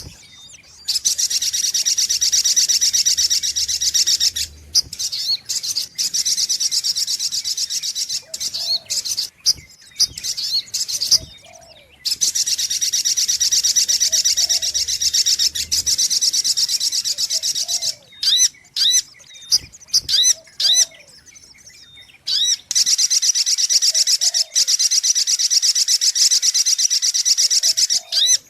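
Spiderhunter (sogok ontong) lure recording: long bursts of rapid, high chattering trills lasting several seconds each. Between the bursts come short, sharp separate call notes, most of them in a lull about two-thirds of the way through.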